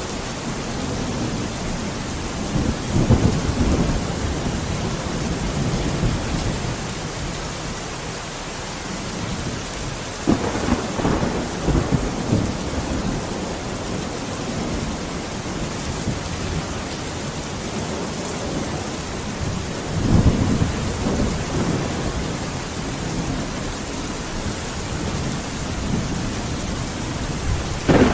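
Steady heavy rain hissing, with rolls of thunder rumbling up about three seconds in, again around ten to twelve seconds, and near twenty seconds, and a sharper crack of thunder at the very end.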